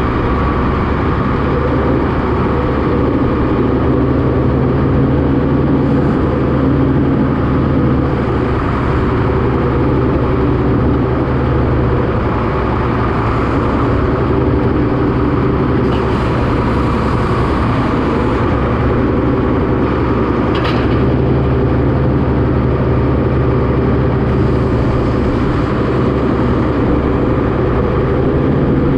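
A farm tractor's engine running steadily while moving windbreaks, with a couple of brief knocks partway through.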